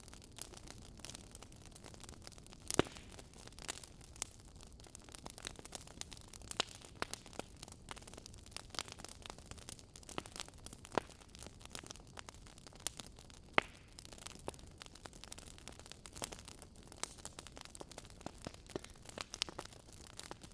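Wood fire crackling in a fireplace: irregular sharp snaps and pops over a soft steady hiss, with a few louder pops scattered through.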